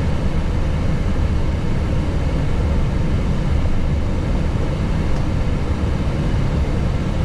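Steady low rumble of the Airbus A321neo cockpit while the airliner taxis, its engines at idle thrust.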